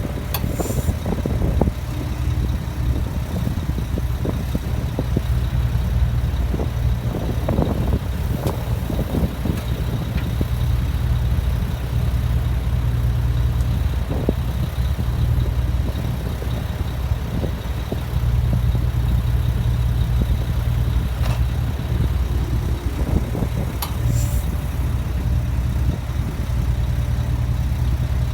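A backhoe's diesel engine running steadily under work, its level rising a little a couple of times, with a few sharp clanks from the machine.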